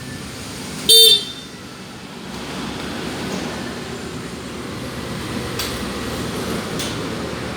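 A short, loud horn beep about a second in, then the Kawasaki Ninja 250 FI's parallel-twin engine running steadily at idle through an R9 GP Series aftermarket exhaust, a rough low rumble.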